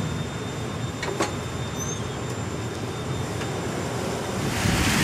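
Steady low rumble of a train moving past a grade crossing, with a couple of faint clicks about a second in. Near the end, a loud hiss of heavy rain builds over it.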